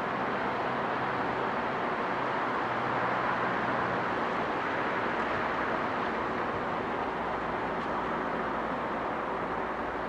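Class 43 HST diesel test train running away along the line: steady wheel-on-rail running noise, with the rear power car's low engine tones fading out about halfway through.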